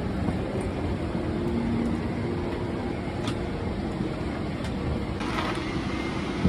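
Steady low rumble of a moving vehicle, with a brief hiss about five seconds in.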